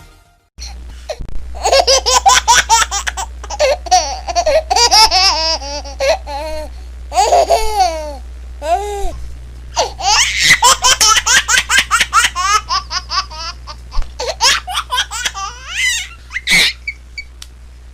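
A baby laughing hard, in fits of rapid, high-pitched giggles and squealing laughs with short breaks to catch breath, over a low steady hum.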